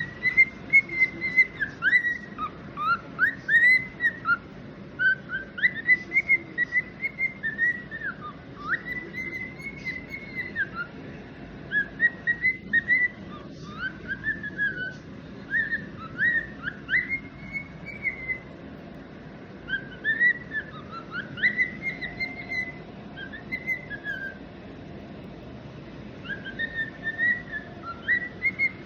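Cockatiel whistling: short phrases of rising and falling notes, one after another, with a pause of a couple of seconds near the end.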